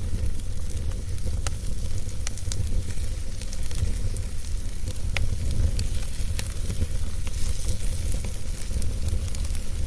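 Wood fire burning in a fireplace: a steady low rumble from the flames with a faint hiss, and sharp crackles and pops at irregular moments throughout.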